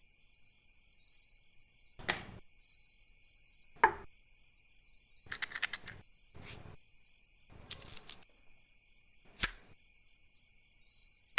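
Crickets chirping steadily in the background, with a handful of short, scattered clicks and light rustles of small objects being handled, including a quick run of clicks about five seconds in.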